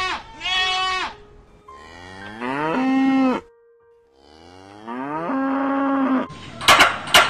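A goat bleats at the very start. Then cattle moo twice, two long calls that each rise in pitch and then hold steady. Near the end come a few sharp knocks.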